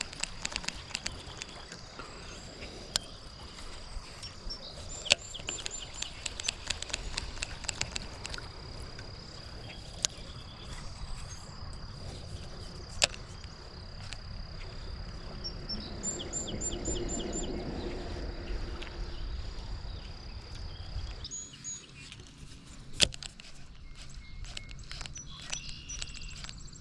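Outdoor insect and bird sounds: a steady high insect drone that stops about two-thirds of the way in, with short runs of rapid high bird chirps twice. Scattered sharp clicks sound over the top.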